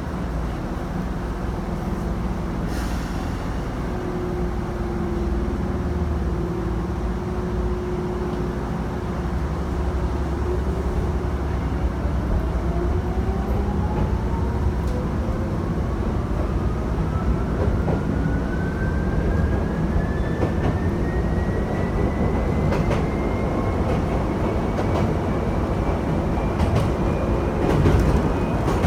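Electric train accelerating: the traction motors' whine climbs steadily in pitch as the train picks up speed, over the steady rumble of the car running on the rails. A few wheel clicks over rail joints come near the end.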